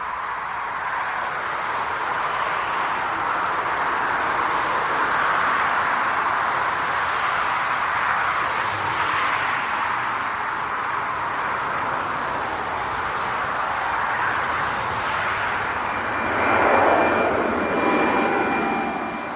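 Airliner's jet engines roaring as it passes, building to a peak about seventeen seconds in, then dropping in pitch as it goes by, with a thin high tone near the end.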